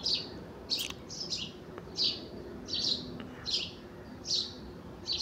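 A bird chirping steadily: one short, high call repeated about every half to three-quarters of a second.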